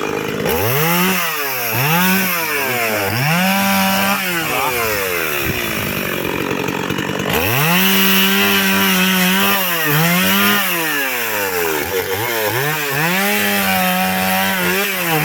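Chainsaw cutting firewood logs, its engine revving up, holding high and dropping back again and again. It eases off for a couple of seconds about halfway through, then revs repeatedly again.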